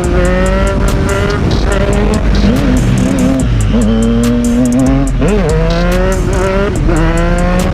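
Triumph Street Triple's inline three-cylinder engine revving under acceleration. Its pitch climbs, drops sharply, holds lower, dips once more about five seconds in, and climbs again, as with throttle changes and gear shifts.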